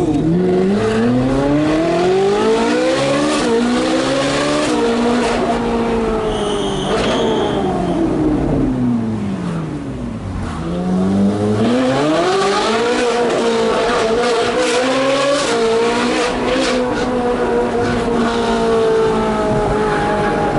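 Ferrari 458 Speciale's straight-piped V8 pulling hard through the gears, its pitch climbing with quick upshifts, then falling away for a few seconds as it slows, before climbing hard again through another shift. A brief high squeal about seven seconds in.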